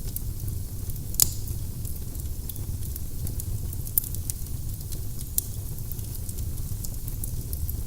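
Firewood burning in a fireplace: a steady low rumble of flames under scattered sharp crackles, with a loud pop about a second in and another about four seconds in.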